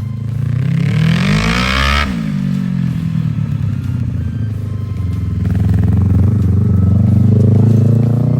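Small racing engine revving up for about two seconds, then backing off sharply and running on, picking up again later.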